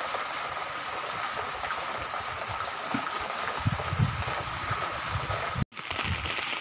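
Steady hiss of rain falling on open ground and wet surfaces, with a faint steady high tone running through it.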